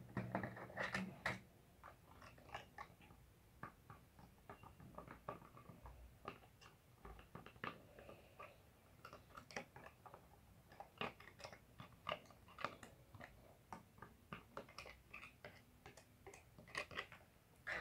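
Faint, scattered small clicks and taps of hands handling a plastic bottle cap and a glue bottle while glue is spread on.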